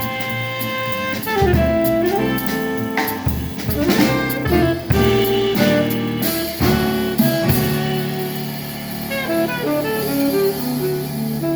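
Live jazz quartet playing, a saxophone over drum kit with frequent cymbal and drum hits; about six seconds in the drumming stops and held notes ring on, as at a tune's closing chord.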